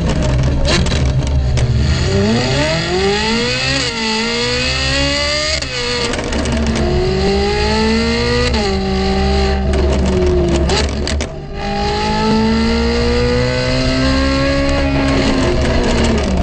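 Ferrari 458 Italia's 4.5-litre V8, fitted with a PP Performance aftermarket exhaust, accelerating hard. The engine note climbs in several long rising sweeps, each cut by a quick drop in pitch, with a few sharp cracks in between.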